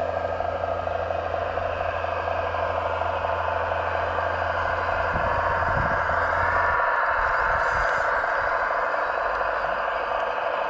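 Radio-controlled scale construction machinery running: a steady mechanical whine, with a low steady hum that stops a little past halfway and is followed by a few light knocks and rattles.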